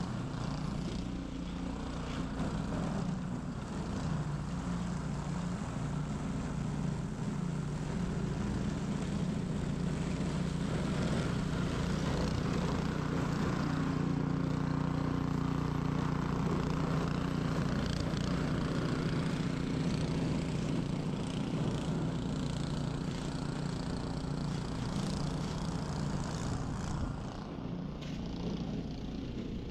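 Ariens 21-inch professional snow blower running steadily while clearing a driveway: an even engine hum with a broad hiss over it.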